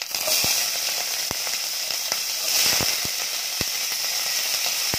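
Small shell-on creek prawns hitting hot oil and frying with a loud, steady sizzle, with a handful of sharp ticks scattered through it.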